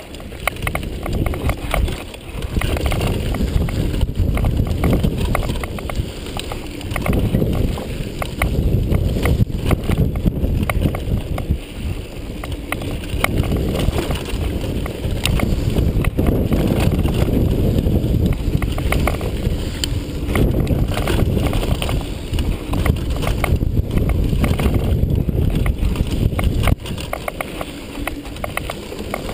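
Downhill mountain bike running over rough trail: a steady rumble of tyres and frame, full of quick rattles and knocks, with wind on the microphone. It gets quieter near the end.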